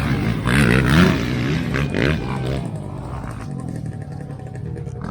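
Motocross dirt bike engines revving hard as the bikes race by, loudest about a second in, then settling to a quieter, steadier drone after about two and a half seconds.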